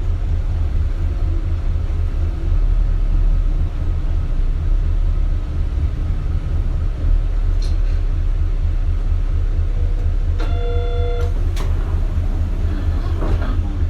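Isuzu Erga city bus's diesel engine running steadily, heard from inside the cabin as a low, pulsing rumble. About ten seconds in, a single electronic tone sounds for about a second.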